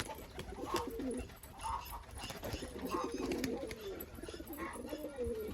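Roller pigeons cooing, one low gliding coo after another, some overlapping.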